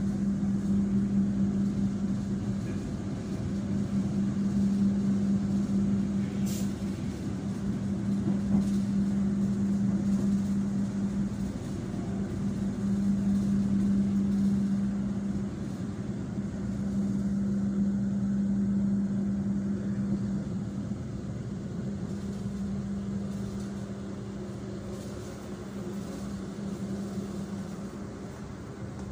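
Running noise heard inside a passenger train carriage as it moves along flooded track: a steady low hum over a rumble, rising and falling a little in loudness, with a single sharp click about seven seconds in.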